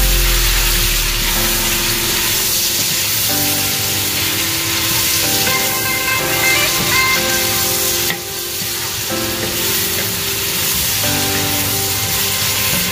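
Chicken drumsticks sizzling as they sauté in a red enamelled pot, stirred and scraped with a wooden spoon, with light background music.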